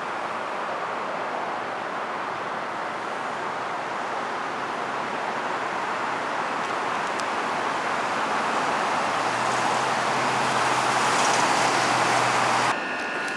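Road traffic noise: a steady rush that grows louder over several seconds, with a low hum joining in as a vehicle draws near, then cuts off abruptly near the end.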